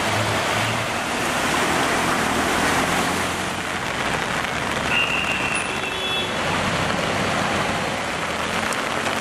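Heavy rain and road traffic on wet, flooded streets: a steady hiss of rain and tyres through water, with vehicle engines underneath and a brief high tone about five seconds in.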